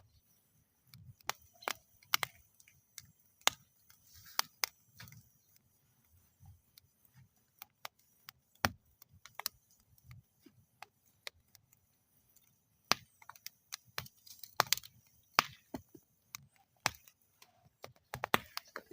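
Wood fire in a metal fire bowl crackling, with irregular sharp pops and snaps of burning wood, some sharper clusters of pops along the way, over otherwise quiet frosty air.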